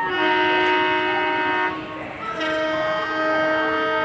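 Train locomotive horn sounding two long blasts, each a steady chord of several tones, the second with a different pitch from the first, after a short gap.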